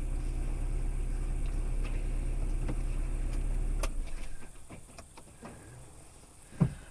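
Car engine idling with a steady low hum, the car running again after its battery failure. It stops suddenly about four seconds in, just after a click, leaving a few faint clicks and a single thump near the end.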